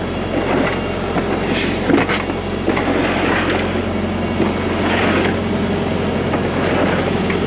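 Heavy truck diesel engine running steadily, with scattered clanks and rattles over it.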